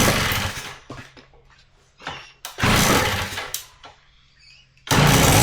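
Kawasaki KD80's 80cc two-stroke engine being kick-started on choke: two kicks each give a short burst of noise that dies away, and on a third attempt, about five seconds in, it fires and keeps running.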